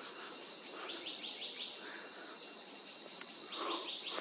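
Insects calling: a steady high-pitched buzz, with two runs of quick repeated chirps, one at the start and one about three and a half seconds in.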